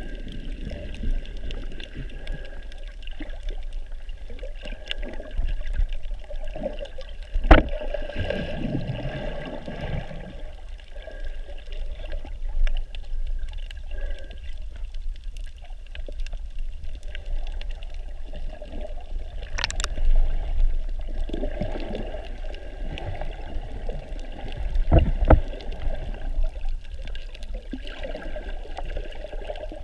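Muffled water sloshing and gurgling around a snorkeler's camera, in swelling surges over a steady low rumble, with a sharp knock about a third of the way in and another near the end.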